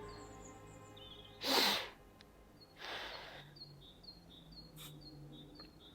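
Quiet outdoor ambience with small high chirps repeating about every half second. Two breathy bursts, like a sharp exhale or sigh, come about a second and a half in and again about three seconds in.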